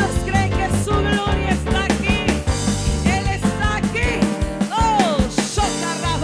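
Upbeat live band music: a drum kit keeping a quick steady beat under singing voices.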